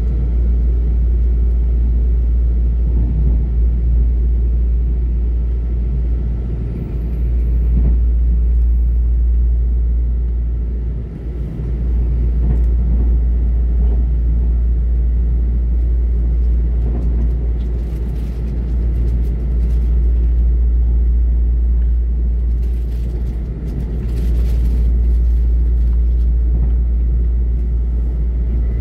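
Steady low rumble of a moving passenger train heard from inside the carriage: wheels running on the rails, with a few faint rattles about two-thirds of the way through.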